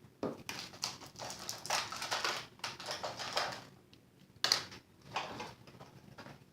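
Irregular taps, clicks and rustles of craft supplies being picked up and moved about on a tabletop, with one sharper tap a little past the middle.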